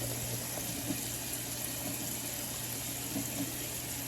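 Water running steadily from a tap, an even rushing hiss with a low hum under it, with a few faint knocks.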